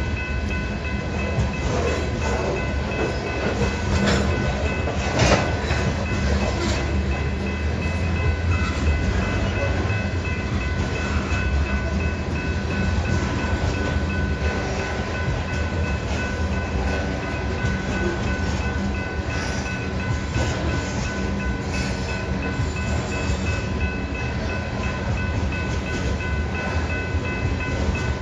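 Freight train of grain hopper cars rolling past, a steady rumble of wheels on rail with clatter and occasional knocks at the rail joints. Several steady high-pitched tones run over the rumble.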